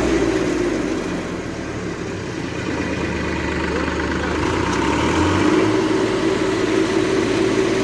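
Massey Ferguson 7250 tractor's diesel engine running steadily, its low note shifting slightly about halfway through.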